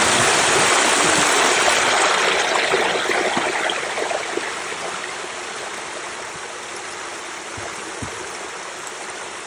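Rushing water, a steady splashing flow like a stream or waterfall, starting abruptly just before and easing slightly after about three seconds.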